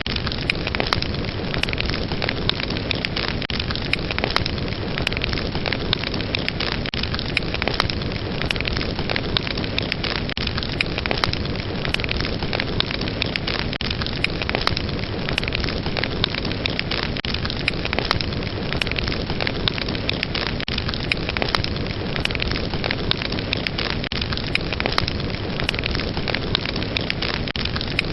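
Fire burning with a steady rushing hiss and frequent sharp crackles and pops, several a second.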